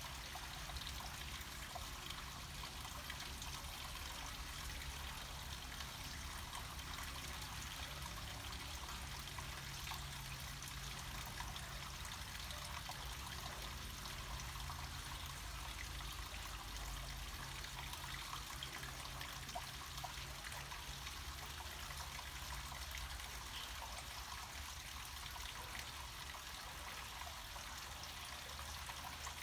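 Water trickling and splashing down a small mountain stream or falls, a steady, unbroken rush.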